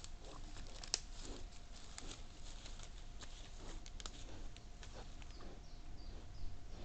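Wild boars foraging and feeding at close range: scattered crunching, rustling and clicking from rooting and chewing, over a faint steady hum.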